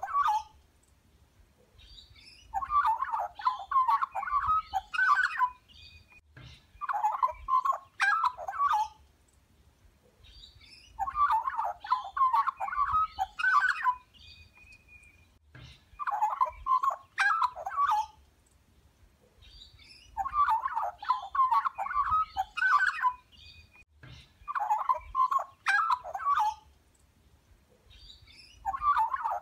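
A bird calling in repeated bursts of rapid chattering notes. Each burst lasts two to three seconds, and a new one starts about every four seconds.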